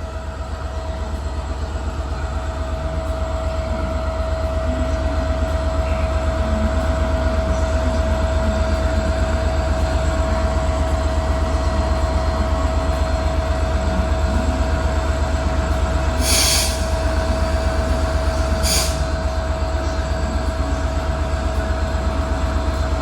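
Class 67 diesel locomotive's EMD V12 two-stroke engine running at idle with a steady drone and an even low throb. There are two short hisses of air, about 16 and 19 seconds in.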